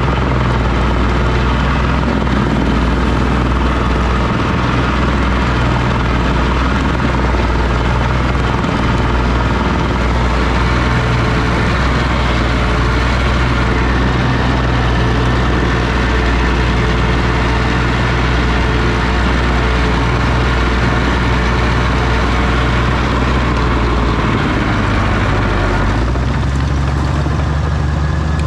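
Oliver OC-6 crawler tractor's engine running steadily. Near the end its pitch shifts upward as the engine speeds up.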